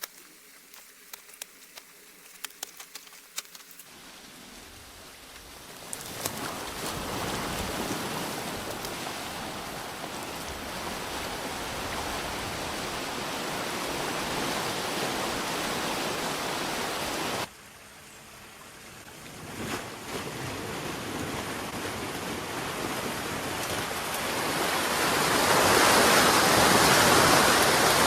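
Water rushing through a breached beaver dam in a drainage canal, starting as a faint trickle with small drips and clicks, then swelling into a steady rush. It drops off suddenly about two-thirds of the way in, then builds to its loudest near the end.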